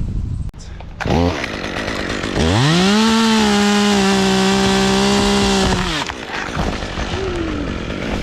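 Chainsaw blipped briefly about a second in, then run up to full throttle and held steady at a high pitch for about three and a half seconds while making a cut, before dropping back to idle.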